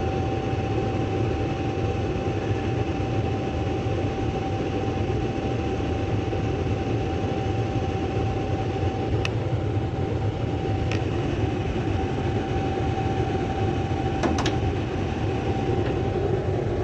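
Gas furnace running: a steady blower rush with a constant high hum over it, and a few light clicks in the second half.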